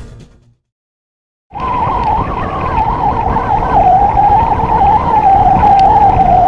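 Music fades out into about a second of silence. Then a Benelli 502C's 500 cc parallel-twin engine runs at a steady cruise, recorded by a camera mounted on the moving motorcycle: a low rumble with a wavering whine that drifts slightly lower.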